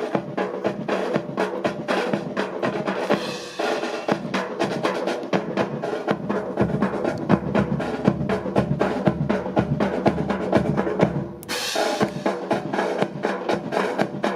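Marching drum corps playing a fast cadence: rapid snare strokes and rolls over bass drum. There is a short break about eleven seconds in, then a brief hissing burst, and the drumming resumes.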